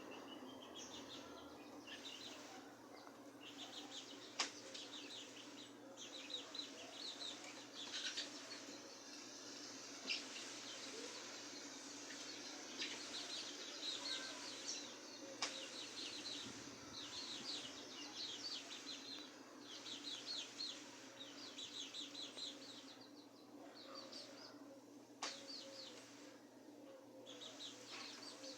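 Birds chirping and twittering, in repeated quick runs of short high notes that overlap throughout. A few sharp clicks and a steady low hum lie underneath.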